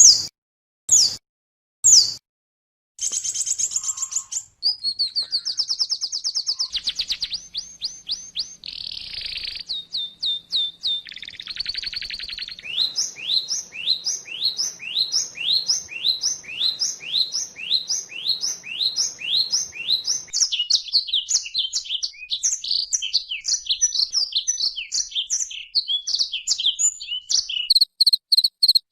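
Oriental white-eye (pleci) song for training caged birds. It opens with three sharp chirps about a second apart, then runs into rapid high twittering, with a long run of repeated down-slurred notes, two or three a second, in the middle and a quick pulsing series near the end.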